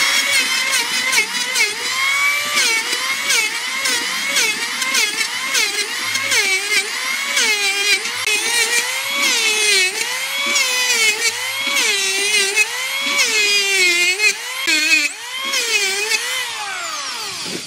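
Electric power tool running on wood, its motor pitch dipping and recovering over and over as it is loaded and eased off. Near the end the motor winds down.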